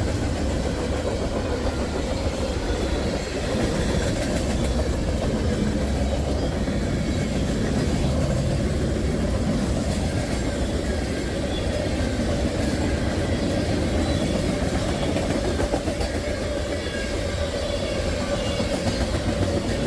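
Freight train of tank cars rolling past at close range: a steady rumble and clatter of steel wheels on the rails, with a faint steady tone above it.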